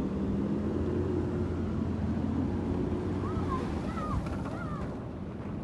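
An engine idling steadily with a low, even hum, with a few short warbling chirps over it in the second half.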